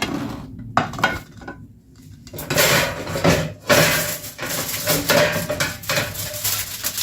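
Kitchenware being handled: a few clicks and knocks, then from about two and a half seconds in a busy run of metal pan and utensil clatter and scraping.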